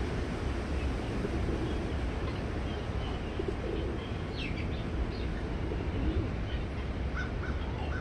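Birds calling: scattered short high chirps, a quick run of falling chirps about halfway through, and a few short low calls, over a steady low rumble.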